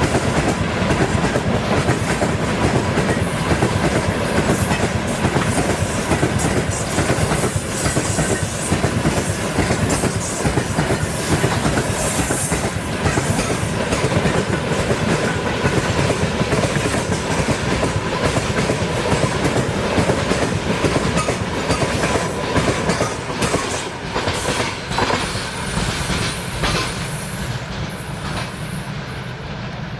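Russian freight train rolling past, its wagon wheels clattering over the rail joints in a continuous rhythm. The noise eases slightly near the end.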